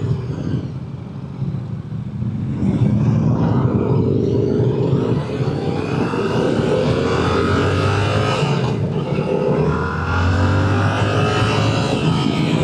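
Motorcycle engine accelerating on the road, its pitch climbing as it pulls, with a break near the middle that sounds like a gear change, over steady rush noise.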